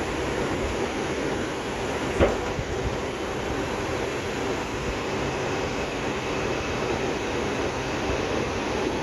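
R142 subway car running between stations, heard from inside the car: a steady rumble and rush of wheels on rail, with one sharp knock about two seconds in.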